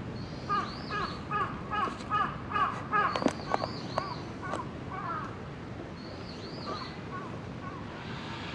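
Birds calling: a fast run of short, harsh, repeated calls, about three a second, with a higher arching call over them, thinning out after about three seconds and mostly gone after five.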